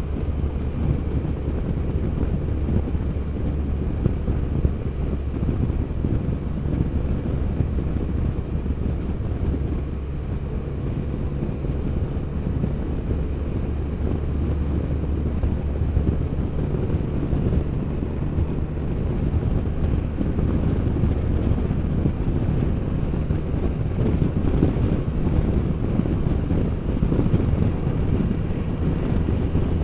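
Can-Am Spyder three-wheeled motorcycle cruising at a steady pace, its engine running with a low, even hum under wind rushing over the microphone.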